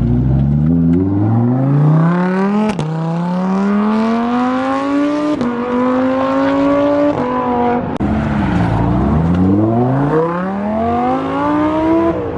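Lamborghini accelerating hard away, its engine note climbing and dropping sharply at each upshift, about three shifts in a row. About eight seconds in the revs fall away briefly, then it pulls hard again up to another shift near the end.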